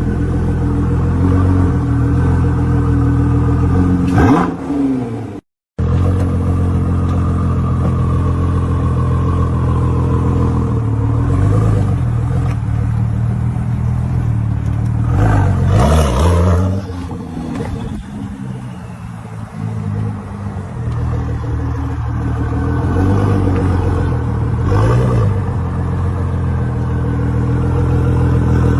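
Car engines running with a low steady note and revving up several times, with a sharp gap about five seconds in where one clip cuts to the next.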